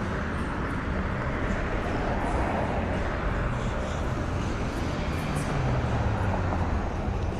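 City street traffic: vehicle engines running and tyre noise on the road, with a steady low engine hum.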